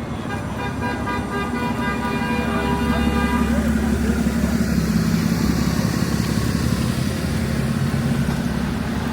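City street traffic: a vehicle horn sounds one long, steady blast lasting about three seconds, over the low drone of passing engines.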